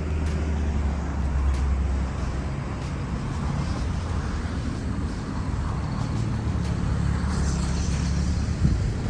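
Road traffic: a motor vehicle's engine running close by with a steady low hum over a general traffic hiss. The hum fades about two seconds in and returns about five seconds in.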